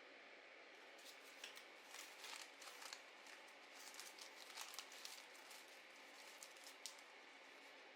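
Paper being worked by hand for a junk journal: quiet, irregular crinkles and clicks over a faint steady hiss, busiest from about a second in until near the end.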